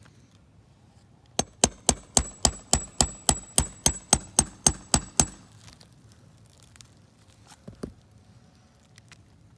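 A fast, even run of about fifteen sharp knocks, a little under four a second, with a high ringing tone during them, starting about a second and a half in and stopping about four seconds later. A few fainter clicks follow near the end.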